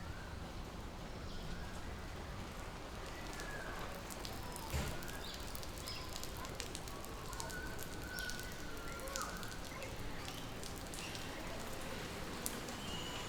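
Birds calling in an aviary: many short whistles and chirps, some rising or falling, over a steady background hiss, with scattered sharp clicks and a single thump about five seconds in.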